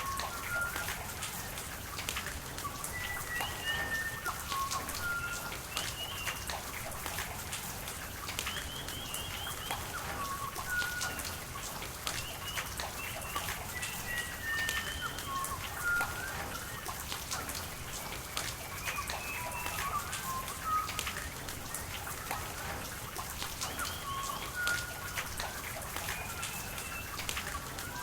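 Rain falling, with drops ticking and pattering, and birds calling over it with many short chirps and whistles throughout.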